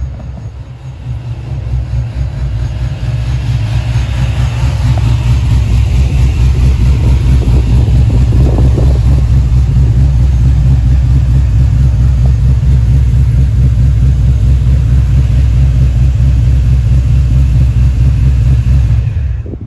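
Muscle car engine running with a loud, deep rumble, growing louder over the first few seconds, then holding steady until it drops away near the end.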